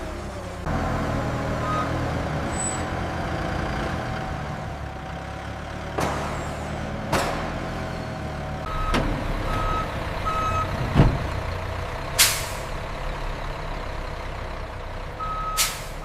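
A heavy truck's engine running steadily, with a few knocks, a series of short reversing beeps and two brief air-brake hisses in the second half.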